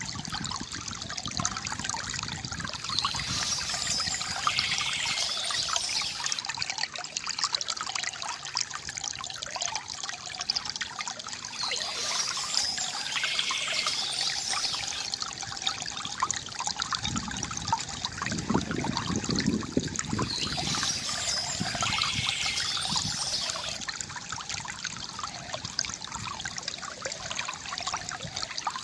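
Water trickling and gurgling steadily from a bamboo fountain, with bursts of bird chirping about every nine seconds and a deeper gush of water about two-thirds of the way in.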